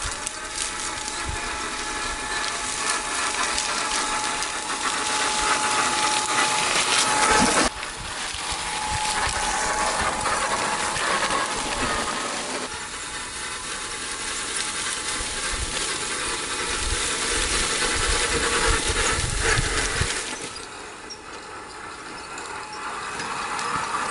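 1/6-scale RC Willys Jeep's electric drivetrain running, its gears and motor making a continuous mechanical whir. The sound changes abruptly about a third of the way in and again near the end.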